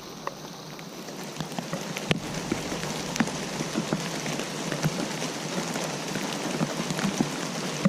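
Steady rain falling, with many separate drops ticking sharply on a nearby surface over an even hiss.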